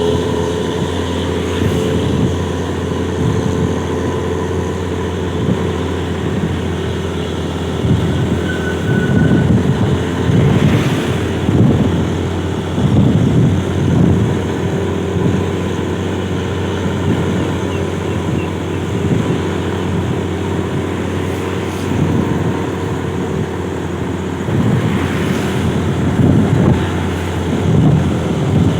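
Bus engine running through its custom exhaust, a steady low drone with surges of rougher noise about a third of the way in and again near the end.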